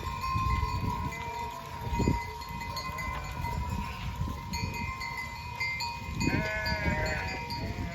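Animal neck bells on grazing livestock ringing steadily while the flock bleats, with a few clear bleats near the end.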